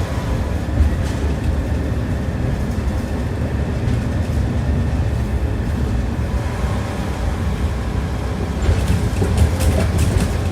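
Tram running along the track, heard from inside the car: a steady low rumble, with a quick run of sharp knocks of the wheels over rail joints near the end.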